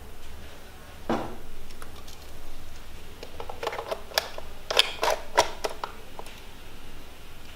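A series of sharp mechanical clicks and knocks, bunched together in the middle, with a duller knock about a second in.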